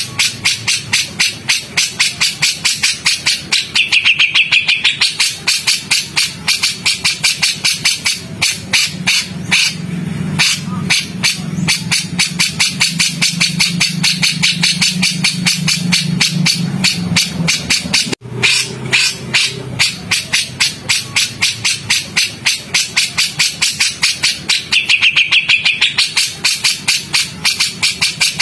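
Harsh, rapid bird call notes, about four to six a second, from a masteran recording of cucak jenggot and cililin 'tembakan' calls. The calls stop for an instant about 18 seconds in and the same sequence starts over.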